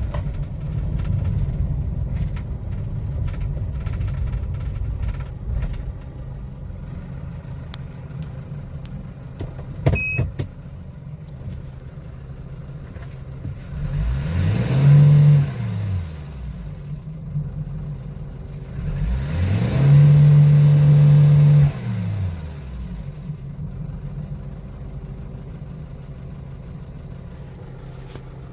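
Kia Bongo III truck engine running, revved twice: each time the pitch climbs, holds briefly and falls back. A sharp click with a short beep comes about ten seconds in.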